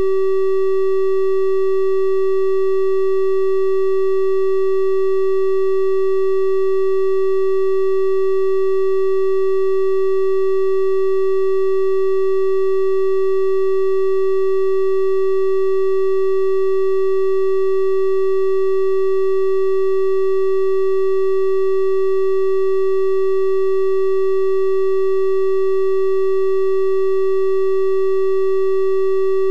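Steady synthesized 384 Hz triangle-wave tone, one unchanging pitch with faint higher overtones.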